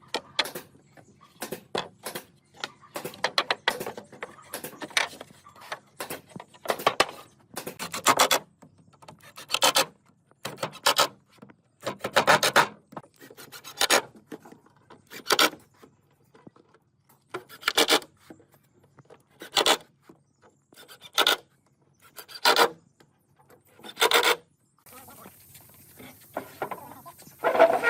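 Wood being worked by hand with an abrasive tool in repeated rubbing strokes. The strokes are short and quick at first, then slower, about one a second.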